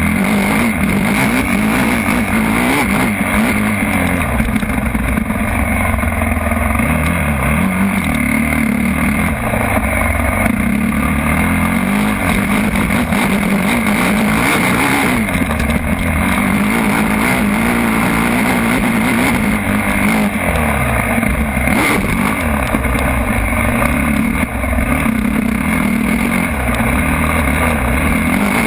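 Motocross bike engines running hard, the pitch rising and falling again and again as the throttle opens and closes.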